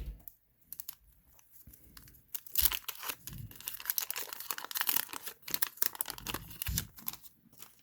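Thin plastic penny sleeve crinkling as a trading card is slid into it, a dense crackly rustle lasting several seconds, with a few soft knocks of handling.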